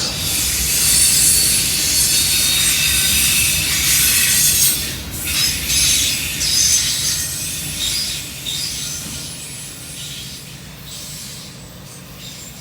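Railroad cars rolling along the rails with their wheels squealing in a high screech over a low rumble. It is loudest for the first five seconds, then fades away steadily as the train goes off.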